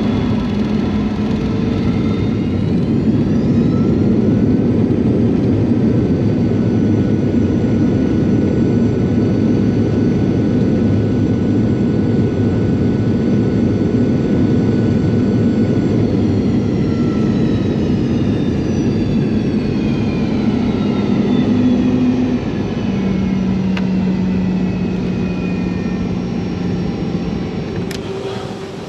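Boeing 717's Rolls-Royce BR715 jet engines heard from the cabin over a steady loud rush: the engine whine climbs over the first few seconds as the engines spool up, holds, then slides down from about halfway through as they wind back. This fits reverse thrust during the landing rollout. The sound changes abruptly near the end.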